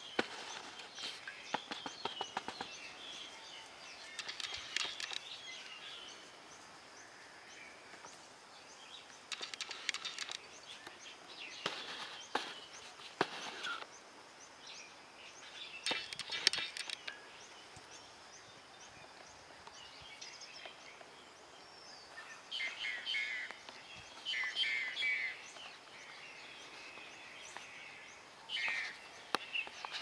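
Wild birds singing and calling: clusters of short high chirps and song phrases every few seconds over faint steady outdoor background noise.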